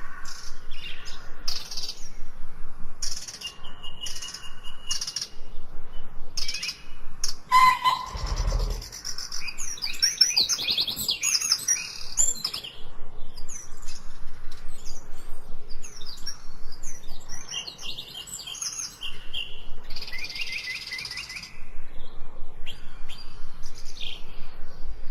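Birds chirping and calling in a busy chorus of short high notes and quick trills, with a brief low thump about eight seconds in.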